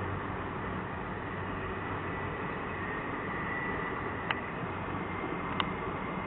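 A Norfolk Southern train rolling by slowly: a steady running noise, with two sharp clicks in the second half.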